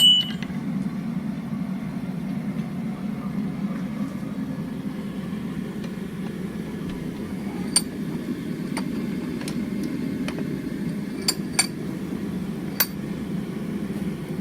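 A forge running with a steady low rushing noise while the steel reheats. A sharp metallic clink right at the start, then a few light clicks and clinks about eight seconds in and again between eleven and thirteen seconds.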